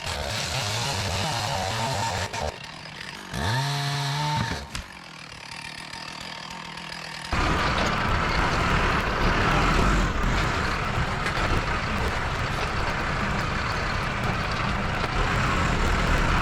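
Diesel engine of heavy earth-moving equipment working. About four seconds in it revs up and back down. It then drops quieter, and about seven seconds in it jumps abruptly to a louder, steady run.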